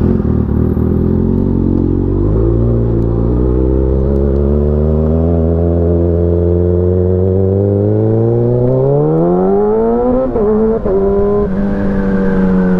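Motorcycle engine pulling away and accelerating, its note rising slowly and steadily, then changing gear about ten seconds in and running steady after.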